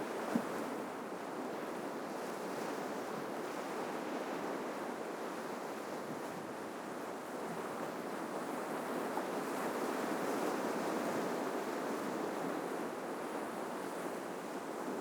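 Ocean surf washing in steadily on the shore, swelling slightly partway through, with one brief tick about half a second in.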